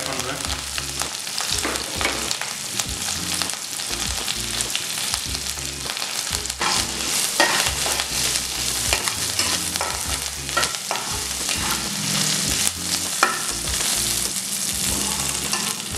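Fresh curry leaves and coriander leaves sizzling and crackling in hot ghee in a nonstick pan: a steady hiss with many small pops. A spatula scrapes and stirs them around the pan.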